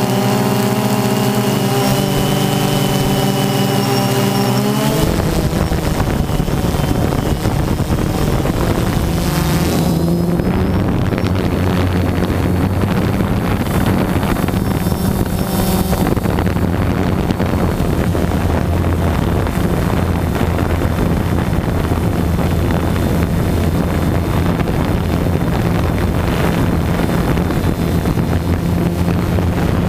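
Camera drone's motors and propellers humming steadily in flight. About five seconds in, a loud rushing noise of wind on the microphone takes over, with the low motor drone still underneath.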